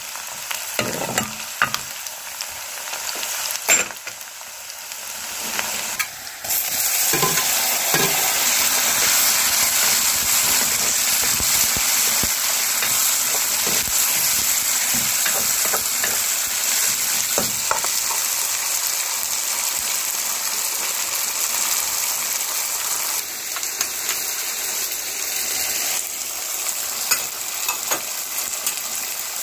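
Onions and vegetables frying in hot oil in a kadai, stirred with a steel ladle that scrapes and knocks against the pan. About six seconds in, the sizzle jumps much louder and stays at a steady hiss, with a knock of the ladle now and then.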